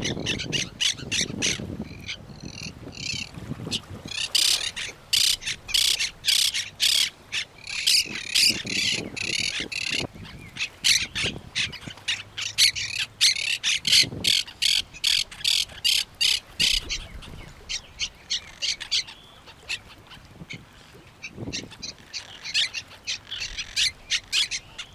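Birds calling and squawking in rapid repeated notes, parrots among them, with a quieter stretch a little past the middle.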